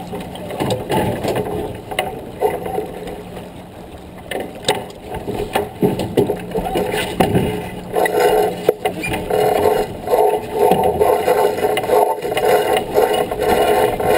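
Sounds of a J24 sailboat under way: repeated knocks and rattles of the boat's gear over water and wind noise. A steady low hum runs through the first half and stops about halfway, and a denser rushing rumble builds from about eight seconds in.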